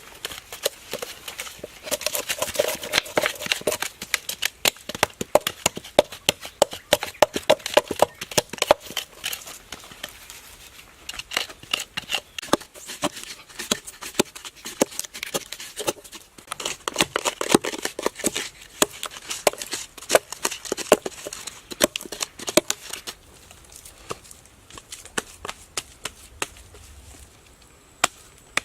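Hand tools working wood: quick, irregular chopping and scraping knocks and clicks, several a second, in two busy stretches that thin out to a few scattered knocks near the end.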